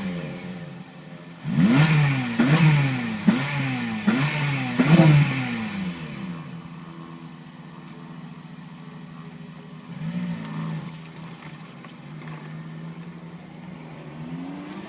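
Honda Civic Type R FN2's 2.0-litre four-cylinder engine, breathing through a K&N panel air filter with the standard exhaust, blipped about five times in quick succession, then settling to a steady idle. A small blip comes in the middle of the idle and the revs rise again near the end.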